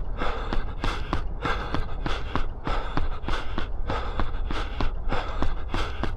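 A runner's footfalls, about three a second, with hard, rhythmic breathing at threshold-run effort, over a steady low rumble.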